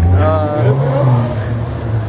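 Motorcycle engine running close by, its pitch rising a little over half a second in as it is revved, then holding.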